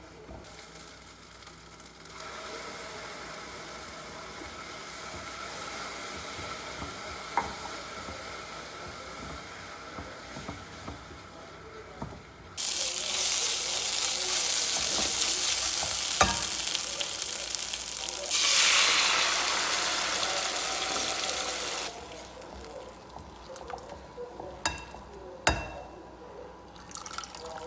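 Tomato masala frying in a nonstick pot while being stirred with a silicone spatula: a steady sizzle that turns much louder about halfway through and cuts off sharply near the end, followed by a few knocks.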